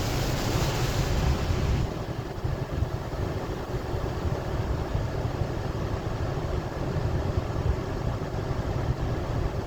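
Automatic car wash running: a steady low rumble with spraying water hiss that eases off about two seconds in.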